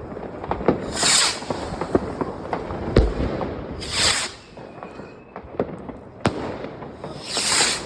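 New Year's Eve fireworks and firecrackers going off all around: a constant scatter of sharp bangs and cracks, one heavy bang about three seconds in, and three short hissing bursts, about a second in, about four seconds in and near the end.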